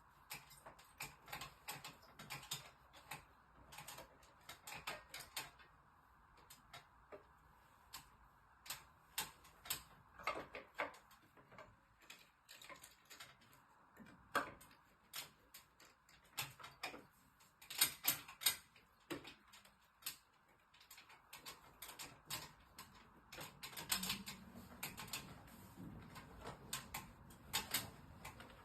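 Irregular light clicks and taps of tools and small parts being handled while working on an air-conditioner's indoor unit, sometimes several a second, with brief pauses, over a faint steady hum.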